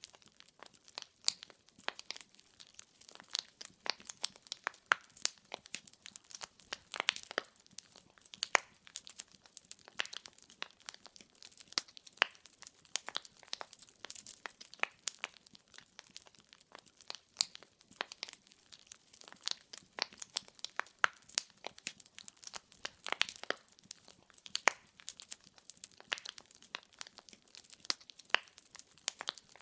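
Firewood logs crackling and popping in a fireplace: many sharp, irregular snaps each second over a faint hiss.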